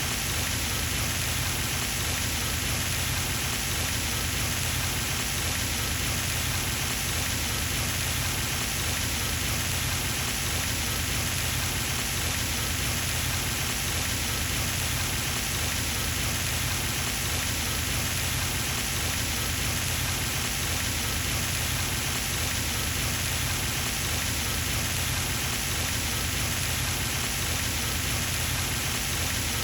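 Garden pond fountain running, its water falling back into the pond with a steady splashing hiss that does not change.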